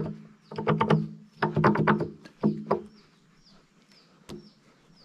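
A small bird chirping repeatedly, a quick series of short, high, falling chirps about every half second through the second half, with one sharp click about four seconds in. The first three seconds hold several louder, short low-pitched sounds.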